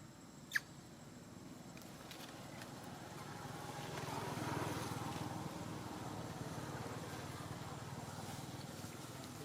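A motor vehicle's engine humming as it passes, growing louder to a peak near the middle and then slowly fading. A single short, high, falling chirp sounds about half a second in.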